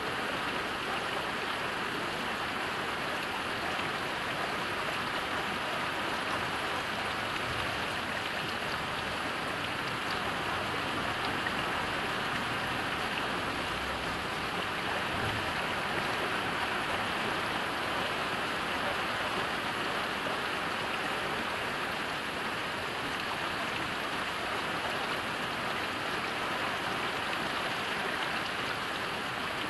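Steady heavy rain falling, an even hiss of drops on surfaces with no letup.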